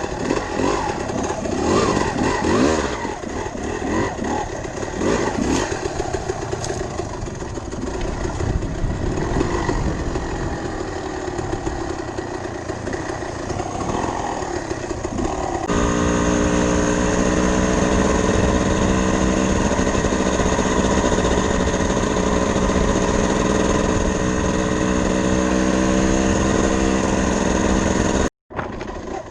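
Dirt bike engine revving up and down as the bike is ridden. About halfway it changes abruptly to a steady, even pitch. A brief dropout comes near the end.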